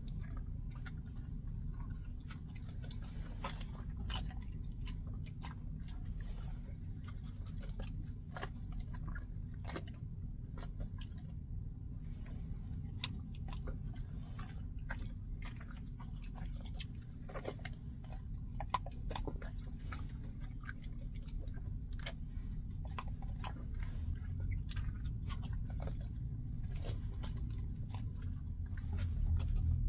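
Raindrops tapping irregularly on a semi truck's cab, heard from inside, over a low steady rumble that grows louder near the end.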